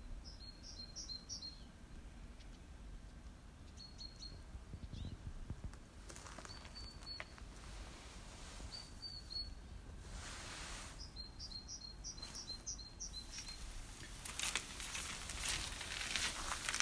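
A small bird calling in short bursts of four to six quick, high, chirping notes, repeated several times, over a low outdoor rumble. Near the end, a rustling, crackling sound grows louder.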